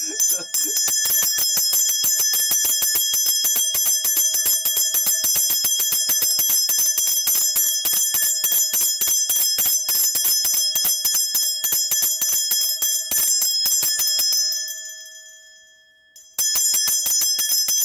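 A Korean shaman's cluster of ritual bells (bangul) shaken in a steady, rapid jingle during a divination. The ringing fades away about fourteen seconds in, and after a short pause the shaking starts again.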